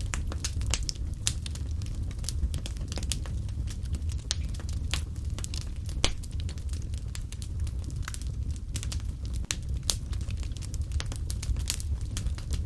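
Wood fire burning in a fireplace: a steady low rumble of the flames under irregular sharp crackles and pops, several a second, with a louder pop about six seconds in and another near ten seconds.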